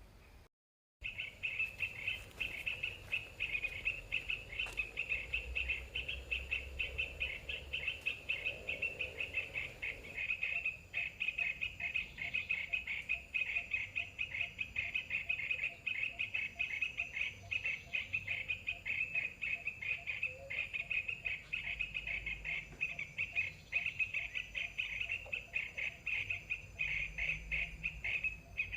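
Rapid, continuous bird-like chirping trill, high-pitched and steady, running on without pause after it cuts in abruptly about a second in.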